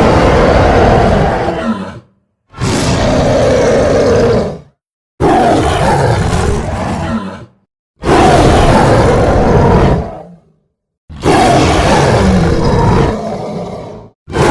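Roar sound effects played one after another, each lasting about two to three seconds and cut off by a short silence before the next.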